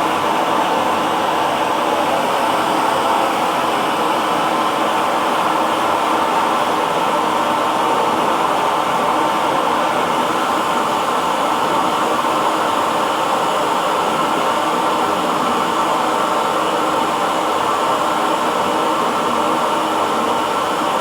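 Hair dryer blowing steadily: an even, unchanging whooshing rush with a faint motor hum.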